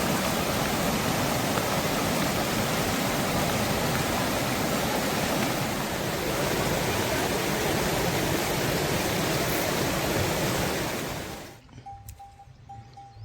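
Steady, loud rushing noise of water, heavy rain or a torrent, that cuts off abruptly near the end; after it a faint short high note repeats about twice a second.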